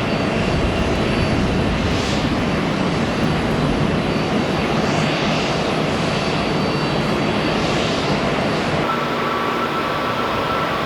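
Jet airliner engines running loud and steady. Near the end the sound cuts abruptly to a different, duller steady background.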